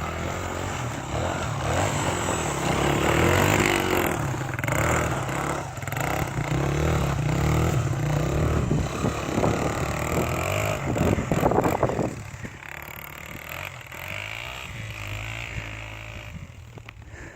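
Honda XR100 dirt bike's single-cylinder four-stroke engine running and revving while riding on snow, growing quieter about twelve seconds in.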